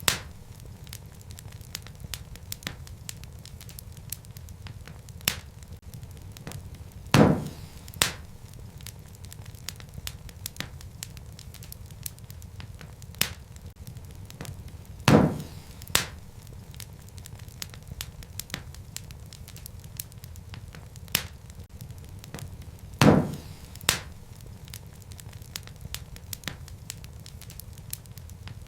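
Wood fire crackling in a fireplace: a steady low rumble with many small ticks and snaps. A pair of louder pops comes about every eight seconds, three times.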